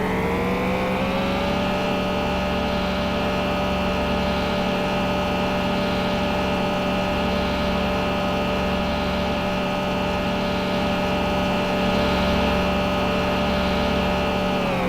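An engine running steadily. Its pitch rises over the first second or two, holds level, then drops near the end as it slows.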